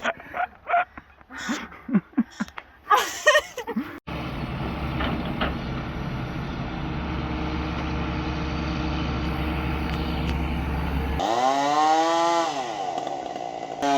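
Short irregular knocks and noises, then an engine running at a steady pitch with a deep rumble. Near the end a chainsaw revs up and back down.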